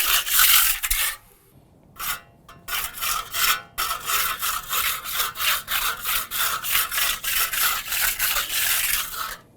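Hand tool scraping and spreading wet acrylic texture mix over a crack in a deck surface, in repeated strokes. There is a short pause a little over a second in, then about two strokes a second until just before the end.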